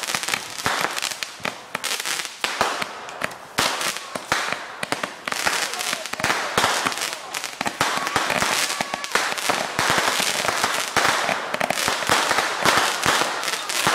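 Consumer fireworks going off in a rapid, unbroken string of sharp crackling pops and bangs, many each second.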